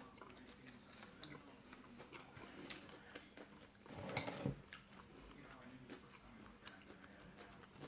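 Faint scattered clicks and taps of dishes and utensils during a meal, with one louder knock and rustle about four seconds in.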